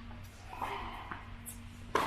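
Tennis ball struck by rackets: a few sharp pops, the loudest near the end, over a steady low hum.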